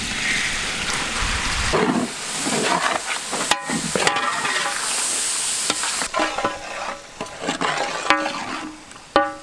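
Chopped tomatoes landing in hot oil with fried onions and green chilies in a large metal cooking pot, setting off a sudden burst of sizzling. A big perforated metal skimmer then stirs the mix, with irregular scrapes and clicks against the pot over the frying.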